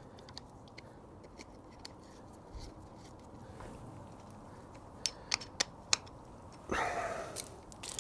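Light metallic clicks of small bolts and hand tools being handled while bolts are fitted into a motorcycle's front sprocket plate, with a few sharper clicks about five to six seconds in and a short scraping rustle near the end.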